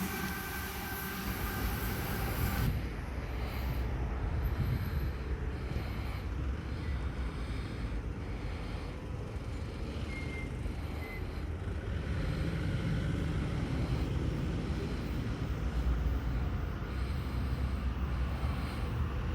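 Electric passenger train running on the rails at a station: a steady low rumble that swells in the second half. A high hiss stops about three seconds in, and two short high squeaks come about ten seconds in.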